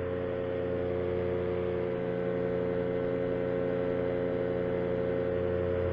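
Power2Fly paramotor's two-stroke engine and propeller running at a steady cruise power in flight, an even drone with no change in pitch.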